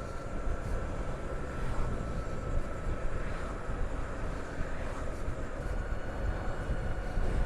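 Wind rushing over a chin-mounted helmet camera, with road noise, while riding a Harley-Davidson LiveWire electric motorcycle. A faint steady high whine fades out about three and a half seconds in.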